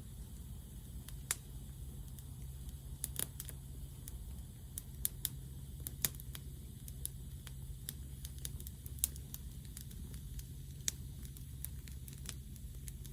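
Wood fire crackling, with sharp irregular pops one or two a second over a steady low rumble.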